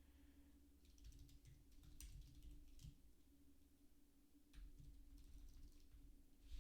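Faint, sparse computer keyboard keystrokes, a few scattered clicks, over a faint steady hum.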